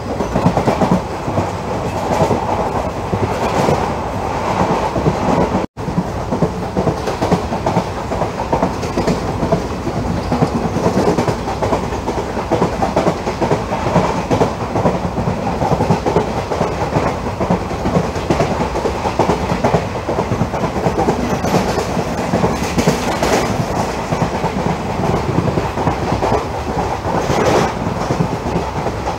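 Express train coach running at speed, heard from alongside the coach: a steady rumble of steel wheels on the rails with a fast clickety-clack. The sound cuts out for an instant about six seconds in.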